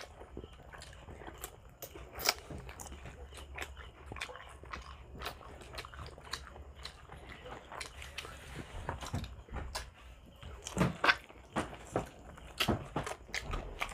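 Close-miked eating sounds of people chewing and biting grilled pork barbecue skewers: many small wet mouth clicks and smacks, with a few louder bites about eleven seconds in.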